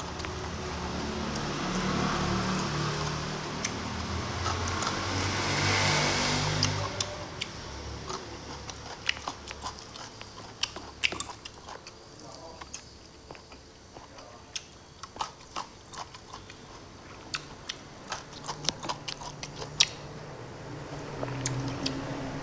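Close-mouthed chewing and lip-smacking of a mouthful of rice and bai vegetable stew, heard close up through a clip-on microphone. A denser stretch of chewing over the first several seconds gives way to scattered sharp, wet mouth clicks.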